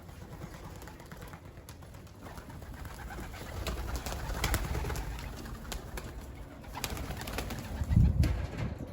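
Young racing pigeons cooing, with a low rumble on the microphone and a loud low thump about eight seconds in.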